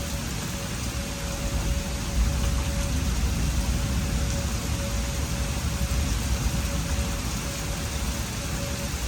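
Heavy rain falling steadily during a severe thunderstorm, with a low rumble of wind on the microphone and a faint steady tone behind it.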